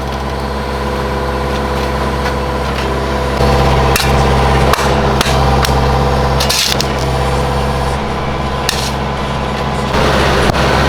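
An engine running steadily at one speed, getting louder about three and a half seconds in, with a few sharp knocks and clicks over it.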